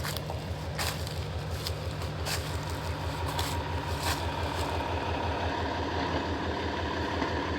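A motor vehicle's engine running close by: an even, low, rapidly pulsing rumble that slowly grows louder, with a steady whine joining about halfway through. A few light ticks sound over it in the first few seconds.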